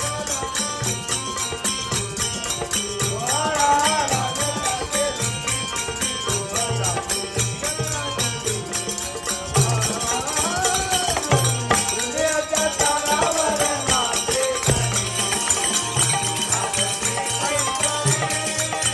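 Bhajan music: harmonium holding steady tones under a fast, even rhythm of jingling metallic percussion and low drum strokes, with a voice singing at times.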